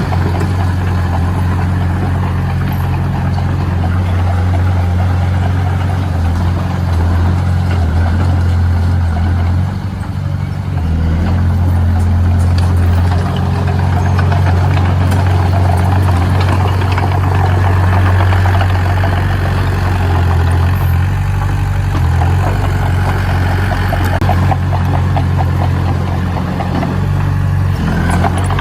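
Heavy diesel engine of earthmoving machinery running steadily with a deep hum and a rattling clatter, easing briefly about ten seconds in.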